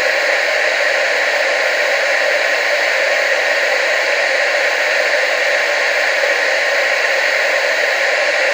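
TV static: a loud, steady hiss with little bass and no change over time.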